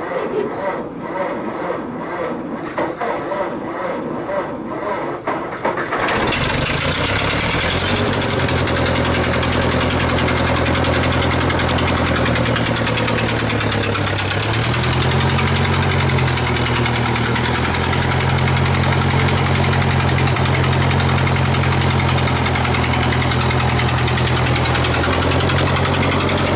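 Ford 8N tractor's four-cylinder flathead engine being turned over with a rapid, even chuffing for about six seconds, then catching and running. Its speed sags briefly a few seconds later, then it settles into a steady idle.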